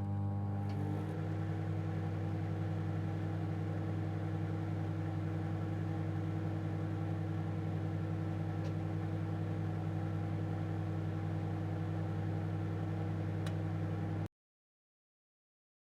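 Microwave oven running: a steady low electrical hum that cuts off suddenly about fourteen seconds in.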